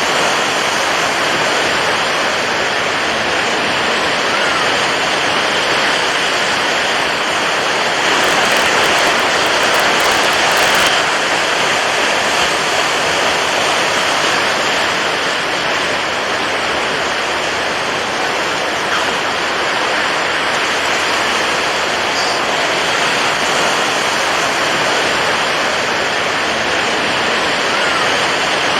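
Continuous rushing water, an even, dense hiss, swelling slightly about eight seconds in and settling back about three seconds later.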